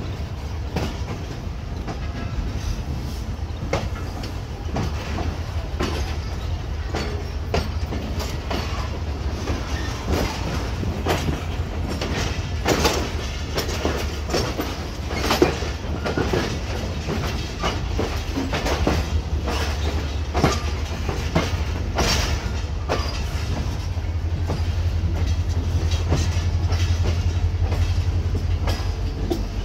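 Pakistan Express passenger coaches rolling slowly out of the station, their wheels clattering in irregular clicks over rail joints and points above a steady low rumble, heard from an open coach doorway. The rumble grows a little louder near the end.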